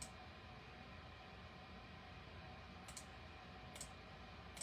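Near silence: room tone with a few faint clicks, one at the start and two more about three and four seconds in.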